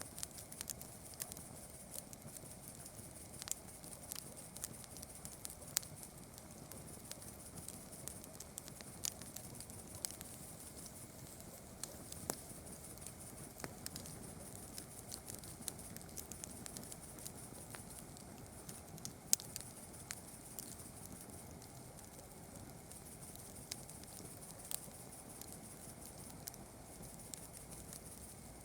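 Campfire crackling: irregular sharp pops and snaps of burning wood, a few louder than the rest, over a steady high hiss.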